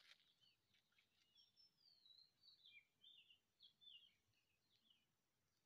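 Faint bird song: a string of short chirps and downward-sliding high whistles, starting about a second in and fading out before the end.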